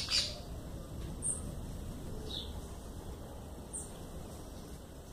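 Two quick wing flutters from a sabiá, then three short, high chirps spaced about a second apart.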